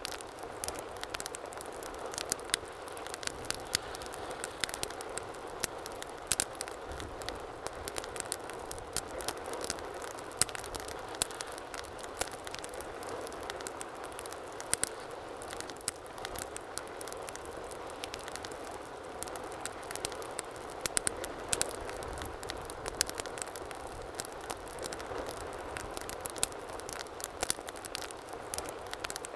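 Wood fire burning in a fireplace: a steady low rush of flame with frequent irregular sharp crackles and pops.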